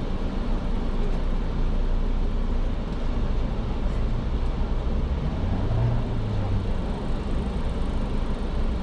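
Car cabin noise while driving: a steady low rumble of engine and tyres heard from inside the car.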